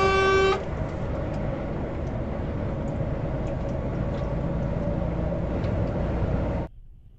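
A car horn held on a steady note, stopping about half a second in, then steady road and engine noise of a moving car that cuts off abruptly near the end.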